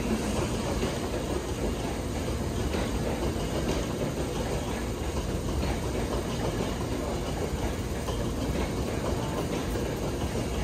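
Hankyu 7000 series electric train, heard from on board: a steady rumble of running gear and car noise, even in level throughout.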